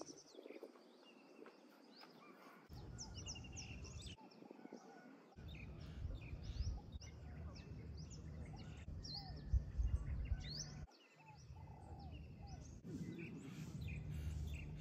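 Small birds chirping and calling in many short, quick downward-sweeping notes, over a low outdoor rumble that cuts out and back in several times.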